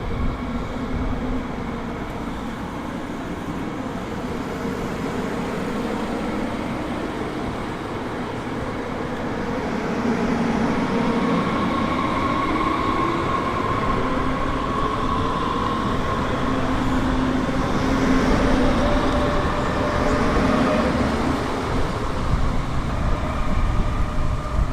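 Train running through a station, its running noise carrying several steady whining tones that grow louder from about ten seconds in.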